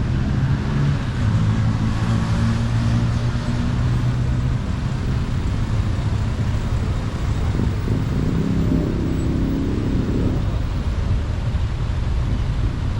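Motor vehicle engine running with steady road noise; about eight seconds in, the engine pitch rises as it speeds up.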